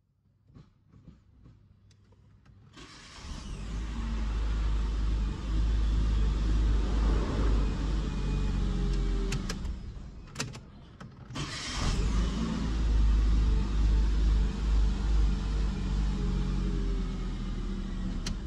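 Citroën C3 petrol engine started by its rebuilt starter motor, which engages cleanly on a new Bendix drive without slipping. The engine catches about three seconds in and runs. It is stopped briefly around ten seconds in and started again about twelve seconds in, then runs steadily.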